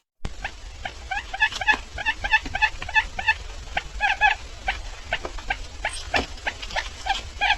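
Barred buttonquail calling: a rapid run of short, pitched calls, several a second, over a steady low rumble.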